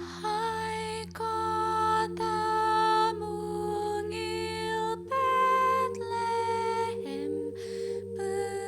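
Wordless vocal humming or singing of a slow hymn tune, one held note about every second with short breaks between, over sustained lower chord tones.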